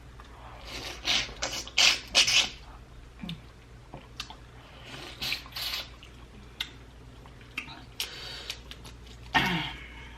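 Close-miked eating sounds from sauced, spicy prawns: irregular wet slurps and sucking, with lip smacks and small clicks.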